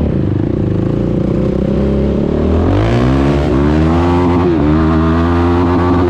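Yamaha YFZ450R quad's single-cylinder four-stroke engine running through a Rossier R5 aftermarket exhaust while riding. The pitch climbs about three seconds in, then holds high with a few brief dips.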